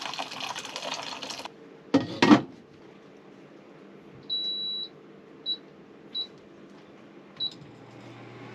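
Water pouring briefly, then two knocks, then an appliance's electronic beeps in a single high tone: one long beep and three short ones about a second apart.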